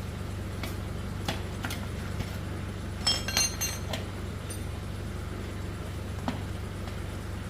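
Metal tools and bicycle parts clinking and tapping as they are handled: a few scattered knocks, then a cluster of ringing metallic clinks about three seconds in, over a steady low hum.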